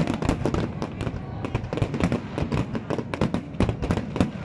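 Fireworks display: aerial shells bursting overhead in a dense, continuous barrage of sharp bangs, several a second.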